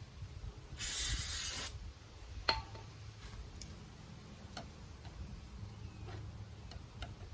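A short hissing spray burst, under a second long, about a second in, typical of an aerosol can of chemical being sprayed. It is followed by a few faint clicks and light scraping sounds.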